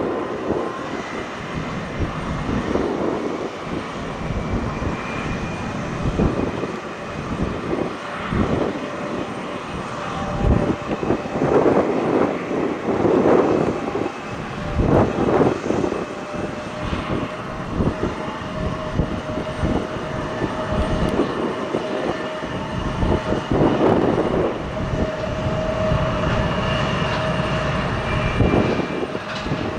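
Embraer 175 jet's turbofan engines running with a steady whine, under gusts of strong wind buffeting the microphone.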